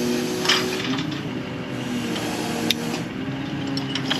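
An engine running steadily, its pitch dipping and shifting a little as the pipe-pulling rig lifts the well's drop pipe, with a few sharp metal clinks.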